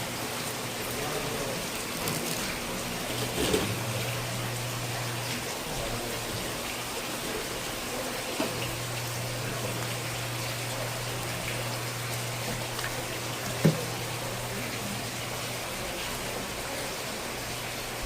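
Steady running or splashing water with a low hum underneath, broken by three short sharp knocks spread through.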